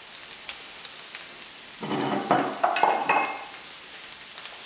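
Diced aubergine frying in olive oil in a pan: a steady sizzle with small crackles as a wooden spatula stirs it. A short, louder sound comes about two seconds in.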